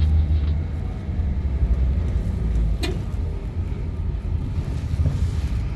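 Low, steady rumble of vehicle engines running, with a single sharp click about three seconds in.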